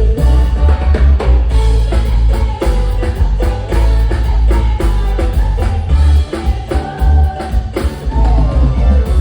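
Live band music with a singer, drums and heavy, booming bass keeping a steady beat.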